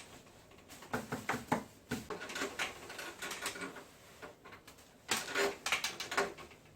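Irregular clusters of sharp clicks and knocks, as of hard parts being handled, most likely while a wall-mounted air conditioner is taken apart for cleaning.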